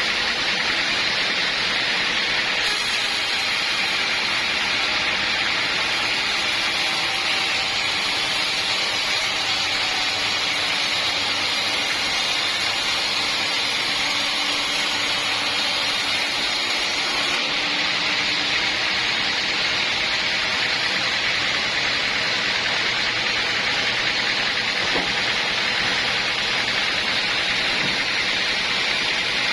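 Sawmill saw cutting lengthwise through a large acacia log: a loud, steady, even noise with no breaks.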